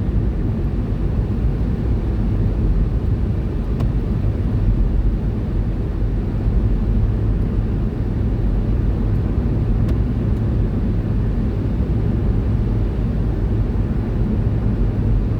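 Steady road and tyre noise with engine hum, heard inside the cabin of a car cruising at about 50 mph on a motorway.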